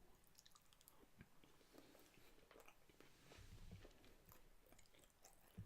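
Faint chewing, with small wet mouth clicks, as someone eats a mouthful of food.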